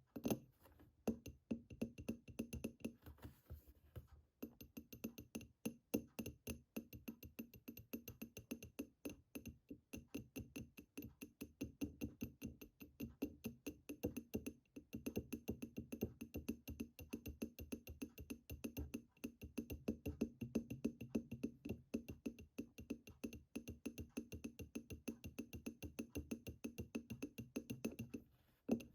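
Fast, continuous fingertip tapping on a hard object, many light taps a second with a faint high ringing behind them.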